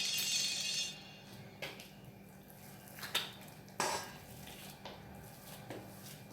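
A short rustle, then a few separate light knocks and clinks of utensils against a bowl or dish as soap is handled.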